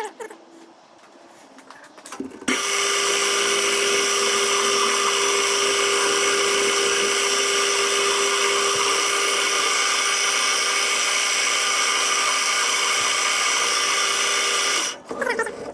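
Electric power tool running steadily at full speed, a high whine over a strong hum. It starts suddenly about two and a half seconds in and cuts off near the end.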